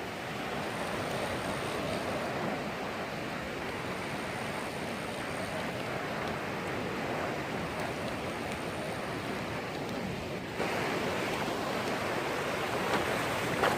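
Steady wash of sea surf breaking on the shore, growing a little louder about ten seconds in.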